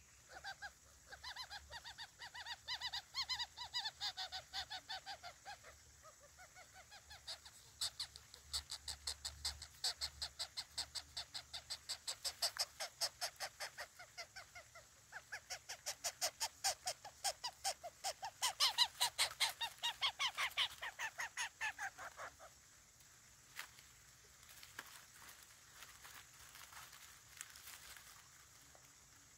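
Coucal chick begging for food: long runs of rapid, harsh, repeated calls, several a second, which die down to faint scattered sounds after about 22 seconds.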